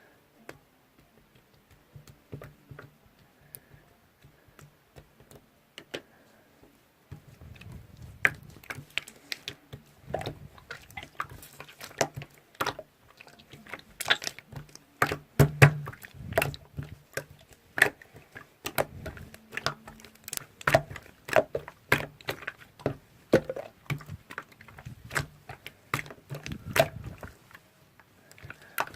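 Irregular clicks and knocks, a few at first, then coming thick and uneven from about seven seconds in, some with a dull thud beneath.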